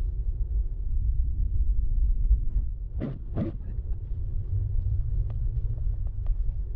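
Jeep driving, with a steady low rumble of engine and tyres and two short higher sounds near the middle.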